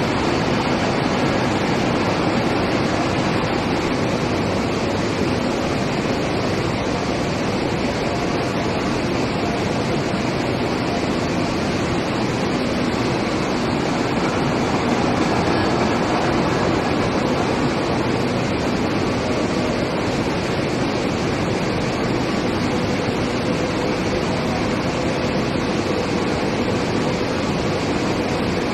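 Steady industrial machinery noise from a steel-plate induction heating line: an even, unbroken rushing noise with a faint low hum underneath.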